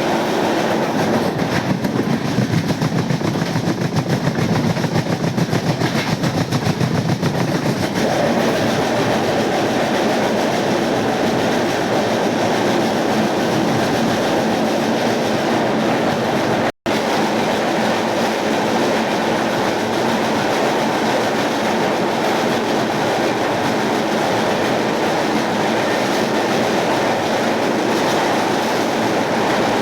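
Passenger train running along the track: a steady rumble of wheels and carriages, with a fast clatter over the first several seconds. The sound drops out for an instant a little past halfway.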